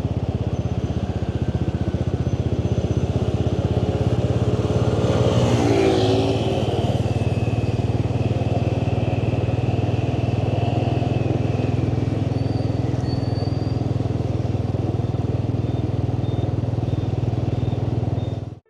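Motorbike engine running steadily while riding, with a louder moment and a falling tone about six seconds in. The sound cuts off abruptly just before the end.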